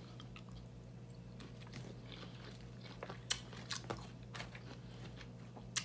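Close-up chewing of a mouthful of lettuce salad: soft, scattered crunches, mostly in the second half, with one sharper click near the end. A faint steady low hum lies underneath.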